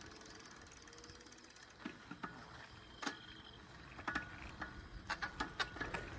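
Bicycle's rear freewheel ticking rapidly as the rider coasts, then scattered sharp clicks and rattles from the bike over the road.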